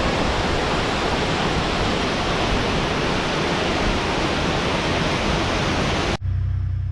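A tall mountain waterfall crashing down in a dense, steady rush of water. It cuts off abruptly near the end, and a low steady hum takes over.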